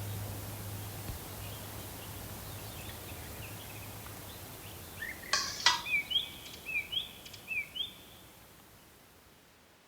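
Birds chirping in short repeated calls over steady outdoor background noise and a low hum, with two sharp clicks about five seconds in; the whole sound slowly fades out.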